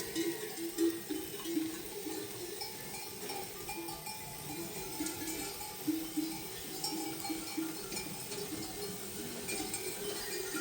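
Livestock bells on a herd clanking irregularly: many short ringing tones in quick, uneven succession.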